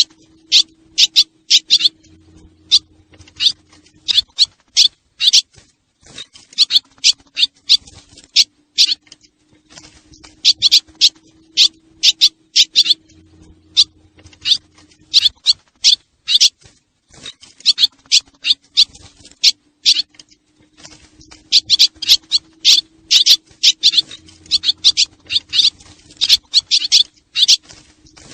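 Swallows twittering: rapid, high, sharp chirps in dense bursts of a few seconds with short gaps, over a faint steady hum. The same sequence repeats about every eleven seconds, so this is a looped recording of swallow calls used as a lure to call swallows in.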